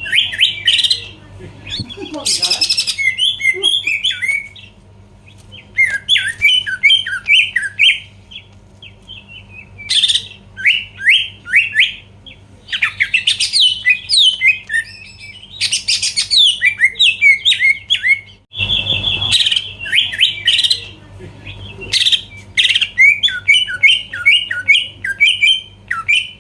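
Cucak ijo (green leafbird) singing loudly in repeated bursts of rapid, sweeping chirps, the phrases broken by short pauses, over a faint steady low hum.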